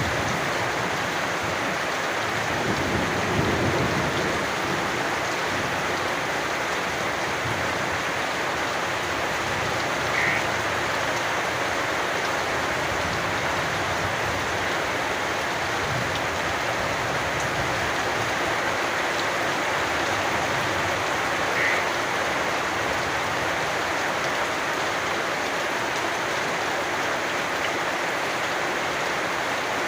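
Steady rain falling, with a frog's short high call twice, about ten seconds apart. There is a soft low rumble about three seconds in.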